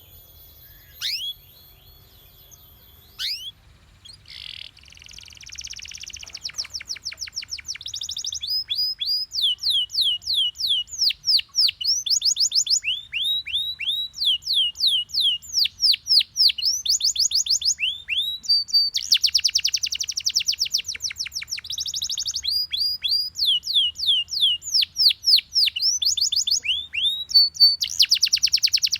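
Yellow Belgian canary singing: a few single chirps, then from about four seconds in a continuous song of rapid repeated trills made of falling whistled notes, broken by dense buzzy rolls twice in the second half.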